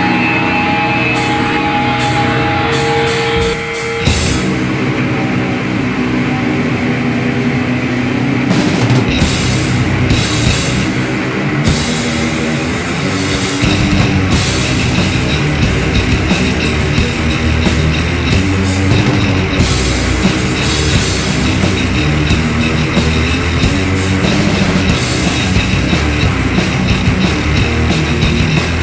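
Live metal band playing loud, distorted electric guitar on its own, then joined by drums and bass about four seconds in, driving on as a full band.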